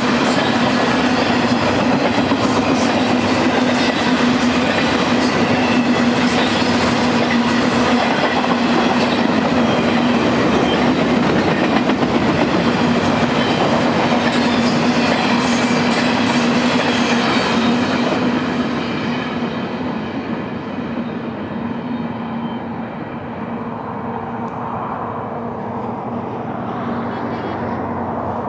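BNSF intermodal freight train of truck trailers on flatcars rolling past: steady wheel-and-rail noise with clickety-clack over the joints and a steady low tone. About two-thirds of the way through, the sound drops and dulls as the last cars pass and the train runs away into the distance.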